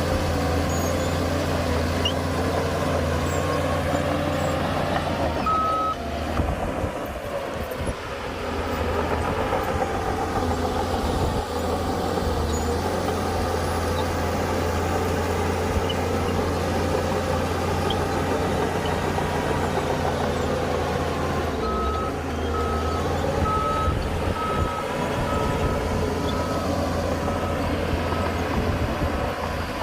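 Heavy diesel earthmoving machinery running steadily with a deep engine drone. A reversing alarm sounds briefly about a fifth of the way in, then beeps about once a second through the last third.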